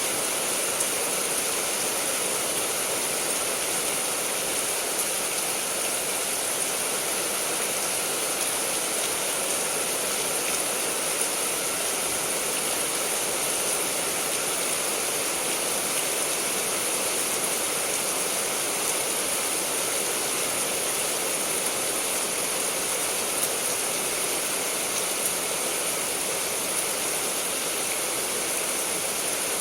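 Heavy rain falling steadily: an even hiss with a few scattered ticks of drops striking.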